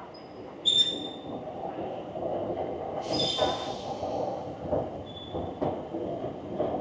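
Railway station background noise, broken by short high-pitched squeals of a train's wheels or brakes three times: about a second in, about three seconds in with a burst of hiss that fades, and about five seconds in.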